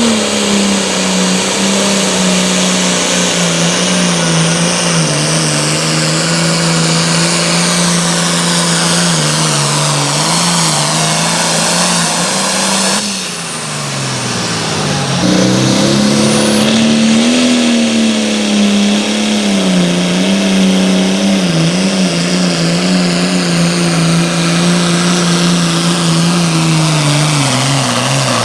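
Pulling vehicle's engine running flat out at a nearly steady high pitch as it drags the weight sled, sagging slightly under load. It drops away about halfway through, then comes back up for a second full-throttle run that winds down at the end.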